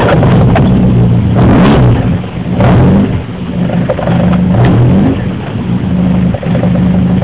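Car engine running just after being started, its pitch dipping and rising a few times, with a few short knocks.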